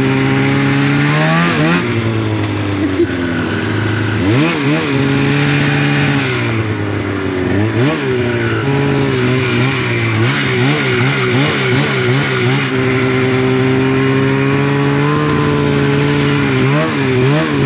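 Snowmobile engine running under load, its pitch rising and falling repeatedly as the throttle is worked. The revs waver quickly in the middle and again near the end.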